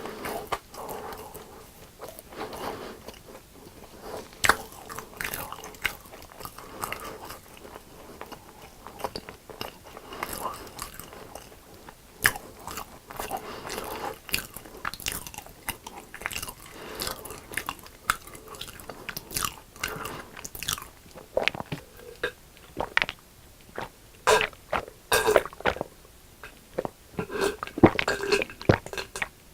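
Biting and chewing crispy deep-fried food. Sharp crunches come at irregular moments between softer, wetter chewing.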